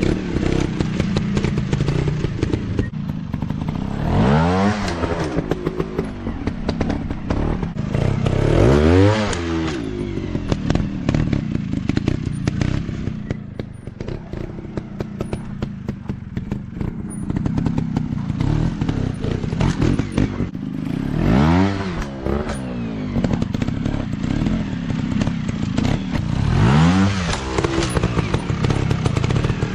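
Dirt bike engines running with a steady rumble, with four sharp throttle blips whose pitch climbs and drops back, spaced several seconds apart.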